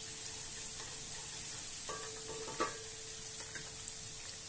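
Thinly sliced onions sizzling steadily as they fry in hot oil, being sautéed until golden. A spatula stirs them and knocks against the pan a couple of times about two seconds in.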